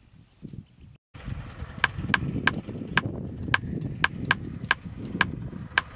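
A cleaver blade chopping into a wooden stick: a steady run of sharp strikes, a little over two a second, starting about two seconds in.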